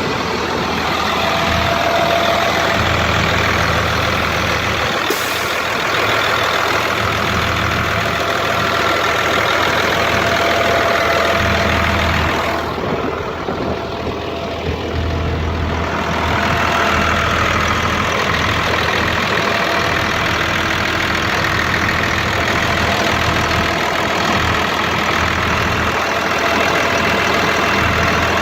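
Caterpillar 3126 inline-six diesel in a GMC C-7500 grain truck idling steadily. The sound dips briefly in loudness about halfway through.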